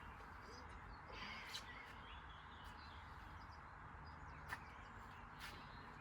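Quiet, steady background hiss with a few faint, sharp clicks and a few faint chirps.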